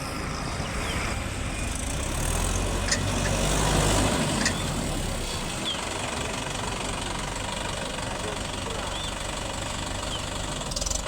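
Heavy diesel engine running steadily, swelling louder with a deeper rumble for a couple of seconds about two seconds in, as if under load, with two sharp metallic knocks during the swell.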